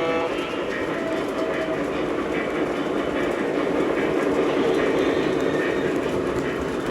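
O scale three-rail model train running along the layout track, a steady rumble of wheels and motor.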